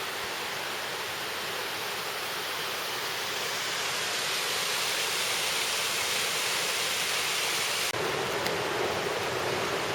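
Creek water rushing and spilling over a small waterfall, a steady rush that swells slightly; near the end it changes abruptly to a fuller, deeper rush.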